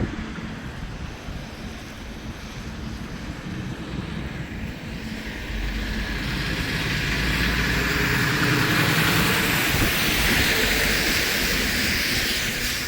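A vehicle passing by: a rumble with a hiss that builds over several seconds, peaks, and falls away near the end.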